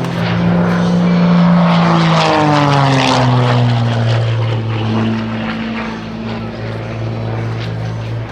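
Game Composites GB1 GameBird aerobatic plane's six-cylinder Lycoming piston engine and propeller, a loud, steady drone. Its pitch drops about two to three seconds in and then holds steady, a little quieter toward the end.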